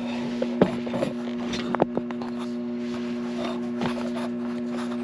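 Light knocks, clicks and scraping of parts being handled and shifted by hand, over a steady electrical hum.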